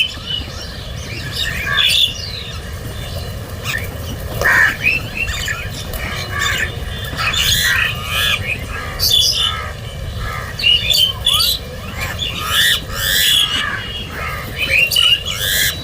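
Crows cawing over and over, many short harsh calls coming in clusters, over a steady low background rumble.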